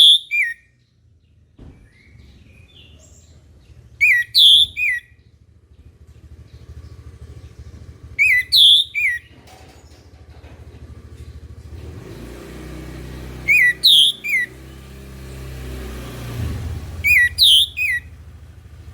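Orange-headed thrush singing short, loud, high phrases of a few clear whistled notes, repeated about every four seconds. A low rumble swells and fades in the background around the middle.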